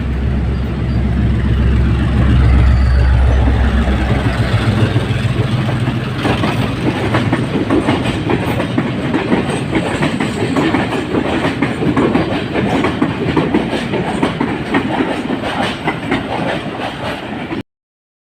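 A train running on the rails: a low drone for the first few seconds, then dense rattling and clattering of the carriage over the track. The sound cuts off abruptly near the end.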